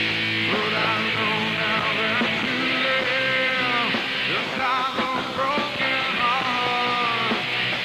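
Rock band playing live: distorted electric guitars with a wavering, pitch-bending lead melody over them, in an instrumental stretch between sung lines.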